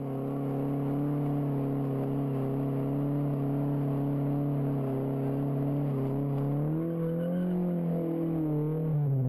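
Car engine held at high, steady revs during a burnout, the wheels spinning in a cloud of smoke. About two-thirds of the way through the revs climb and waver, then fall away at the end.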